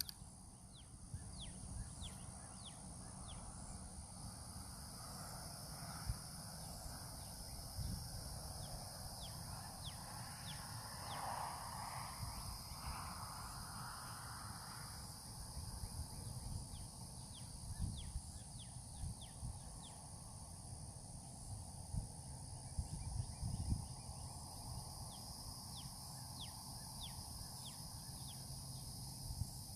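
Outdoor nature ambience: a steady chirring insect chorus, with many short downward-sliding bird chirps coming in clusters and a low, uneven rumble underneath.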